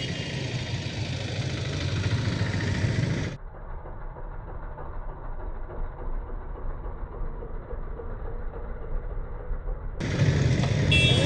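TVS Metro Plus 110cc motorcycle's single-cylinder engine running steadily while riding, with road noise. About three seconds in, the sound turns dull and muffled, losing its high end, until near the end.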